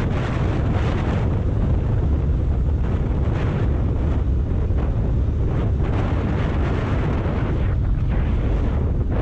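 Wind buffeting the microphone of a Kawasaki Ninja 400 motorcycle riding at speed: a steady, heavy low rumble with no clear engine note standing out.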